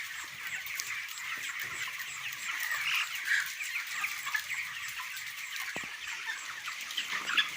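A flock of 26-day-old broiler chickens peeping and chirping together in a dense, steady chatter.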